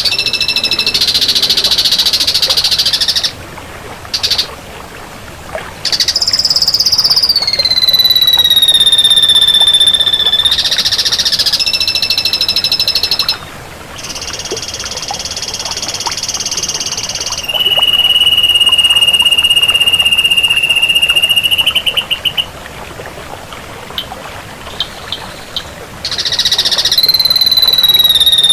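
Ashy drongo singing: long drawn-out whistled notes lasting a few seconds each, some sliding down in pitch, with short gaps between them and a stuttering run of notes about two-thirds of the way through.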